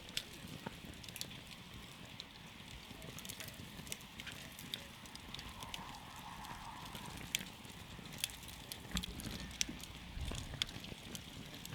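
Campfire burning wood, crackling: many sharp pops and snaps at irregular intervals over a low rumble.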